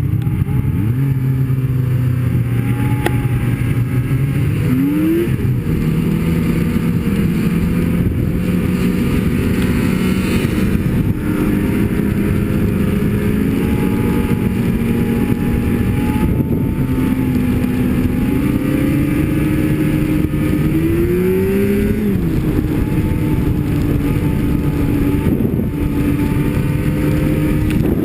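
Snowmobile engine running under way, its pitch shifting up and down with the throttle and climbing sharply about five seconds in and again about twenty-one seconds in.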